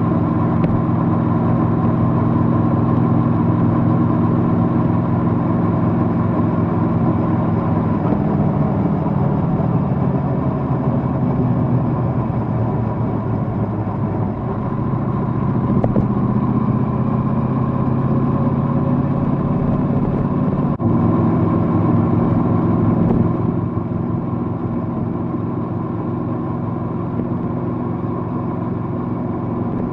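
Triumph Bonneville Bobber's 1200 cc parallel-twin engine running under way, with its note changing about eight seconds in and again abruptly about twenty-one seconds in.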